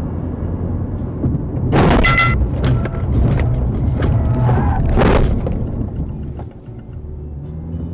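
Dashcam recording of a car's steady engine and road rumble, broken by a loud crash about two seconds in, then smaller knocks and a second loud bang about five seconds in; the rumble drops away near the end.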